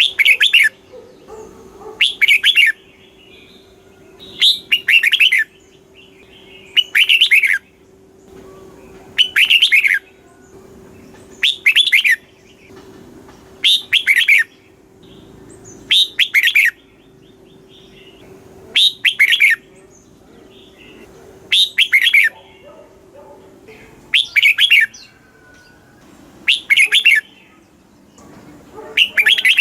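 Red-whiskered bulbul singing: short, loud, warbling phrases repeated about every two seconds. A faint steady hum runs underneath and stops a few seconds before the end.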